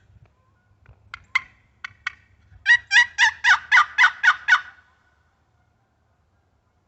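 Turkey box call worked by hand: a few short, sharp notes, then a loud run of about eight notes at about four a second.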